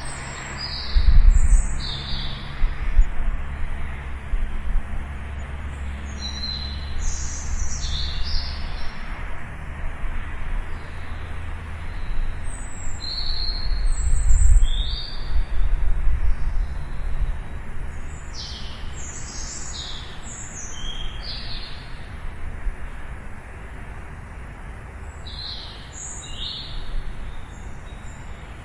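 Small birds chirping again and again in short, high chirps, over an outdoor low rumble that swells about a second in and again around the middle.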